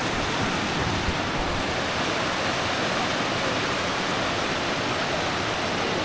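Creek water rushing steadily, a continuous even noise.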